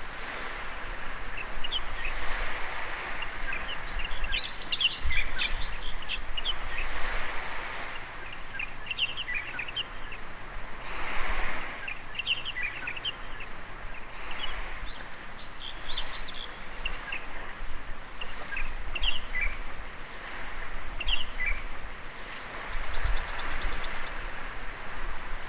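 Small waves washing up on a beach, swelling and fading every few seconds, with birds chirping in short high notes throughout and a quick run of repeated notes near the end.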